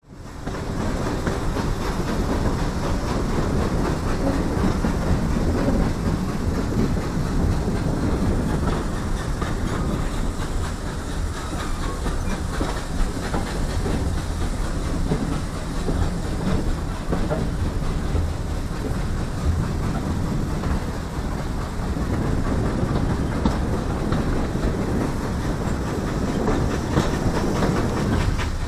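Heritage railway carriage running along the line, heard from an open window: a steady rumble with the wheels clacking over the rail joints.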